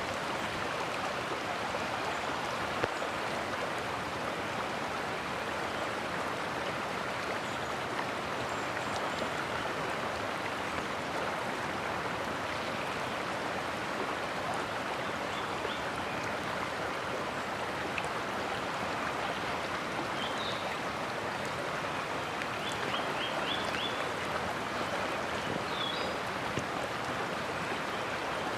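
Mountain stream flowing, a steady rush of water, with a few short high chirps near the end.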